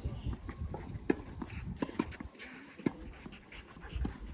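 Tennis rally: sharp pops of a tennis ball struck by rackets and bouncing on the court, about a second apart, with players' footsteps shuffling in between.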